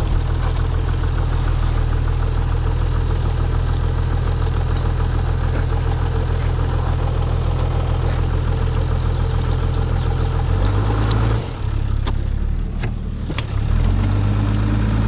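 Toyota Land Cruiser 80's engine running steadily at low revs while it crawls through deep mud ruts. About ten and a half seconds in the revs rise briefly, then drop while a few knocks sound, and the revs rise again near the end.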